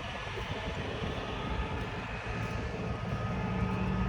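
A steady mechanical drone with a low hum and a thin, high, steady whine that comes in about halfway through.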